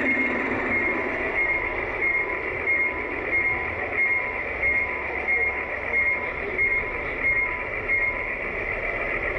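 Large-scale garden model train running, with a steady running noise and a repeating high ring about three times every two seconds that stops near the end.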